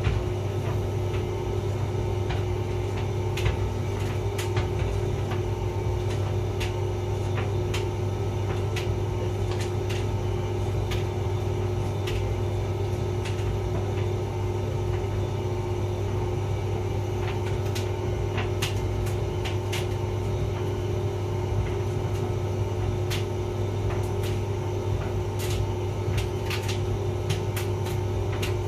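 Hotpoint vented tumble dryer running: a steady motor and drum hum with scattered light clicks and taps as the load tumbles.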